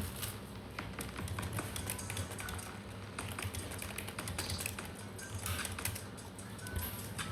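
Rapid, irregular light taps and clicks, like typing, over a low steady hum.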